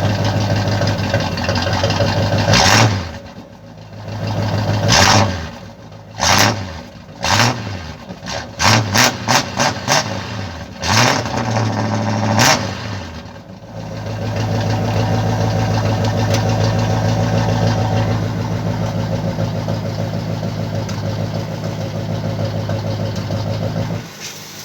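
Ford Galaxie V8 engine idling with a strong rumble, then revved in a series of sharp throttle blips, several in quick succession near the middle, dropping back between each. It settles into a steady idle for the last ten seconds or so.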